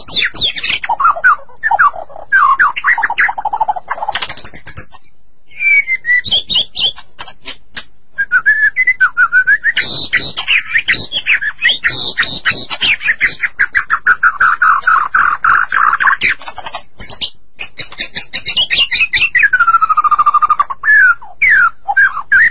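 White-rumped shama singing a loud, varied song of rich whistles, fast trills and downslurred phrases, with short pauses between phrases.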